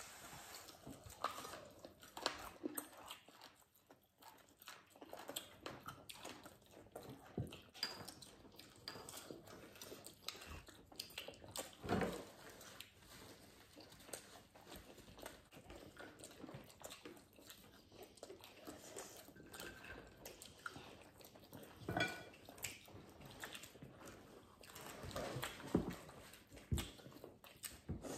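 Close-up eating sounds of several people biting and chewing crispy breaded fried chicken: irregular crunches and wet mouth sounds, with a few sharper, louder crunches near the middle and toward the end.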